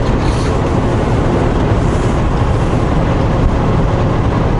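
Semi-truck driving at road speed, heard from inside the cab: a steady low engine drone with an even rush of tyre and road noise.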